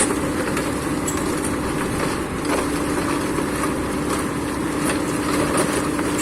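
An excavator's diesel engine runs steadily with a constant droning tone. The tone fades about a second in and comes back strongly about halfway through.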